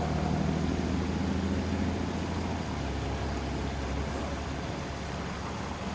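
Steady low hum of a running engine or motor over a faint hiss, easing slightly after about two seconds.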